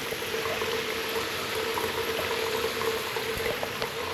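Shower water running steadily as a continuous spray hiss, with a steady hum underneath.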